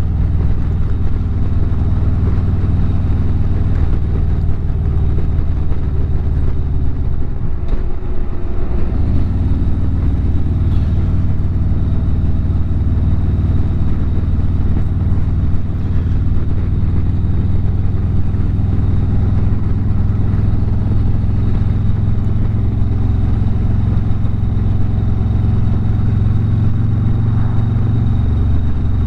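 Harley-Davidson V-twin engine running at road speed as the motorcycle rides along a highway, with a steady low engine note. The note dips and picks back up about eight seconds in, then holds steady again.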